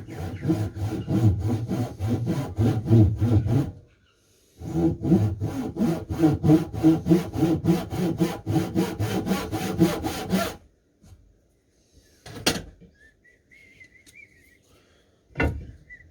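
Hand saw cutting through a piece of jarrah hardwood in quick, even strokes, about four a second, in two runs with a short pause just before 4 seconds. Two sharp knocks follow near the end.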